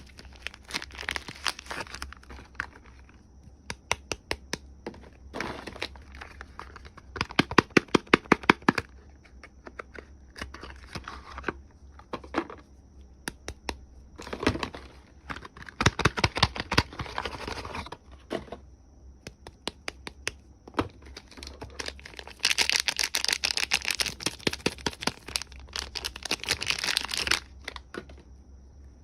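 Soap packaging being unwrapped by hand: wrappers crinkling and tearing in bursts, with runs of sharp clicks and a longer stretch of dense crinkling near the end.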